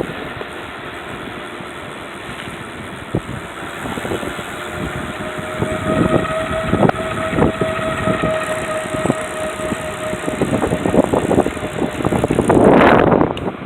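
Electric trike rolling along a trail: rattling and knocking over bumps, with a steady whine lasting a few seconds midway. A louder rush of noise comes near the end.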